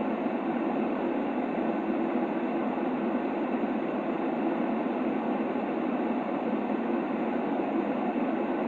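Continuous white-noise sleep sound for a baby: an even, unchanging hiss, strongest in the middle range, with little deep rumble and little high treble.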